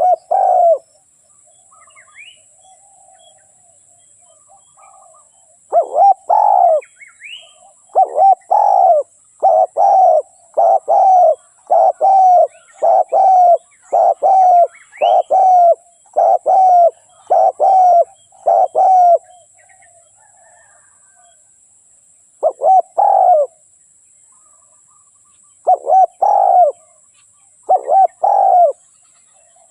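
Spotted dove cooing: a series of hoarse, repeated coo notes, with a long run of notes through the middle and shorter groups of two or three near the end, separated by pauses.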